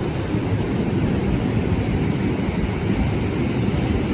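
Sea surf washing onto the beach, mixed with wind rumbling on the microphone, a steady noise heaviest in the low end.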